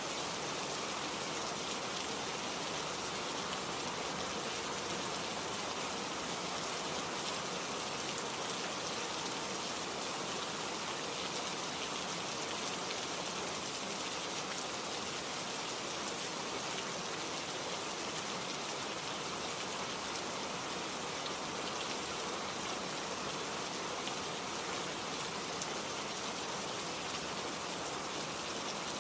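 Steady rain falling and pattering on a surface, an even hiss with scattered small drop ticks and no change.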